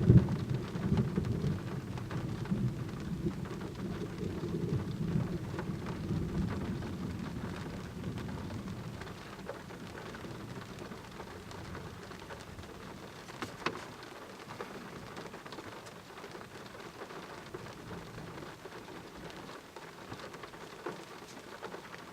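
Thunder rumbling over steady rain, opening with a sharp crack; the rumble fades away over the first eight seconds or so, leaving the rain on its own.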